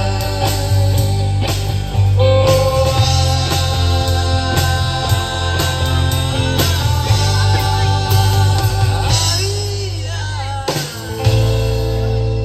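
Rock band playing live: guitar and drum kit in a wordless closing passage of the song, with a final hit near the end and a chord left ringing.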